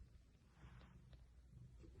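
Near silence with a faint low rumble.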